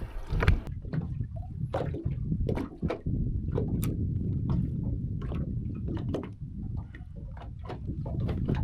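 Muffled water sloshing and gurgling, with irregular sharp clicks and knocks throughout.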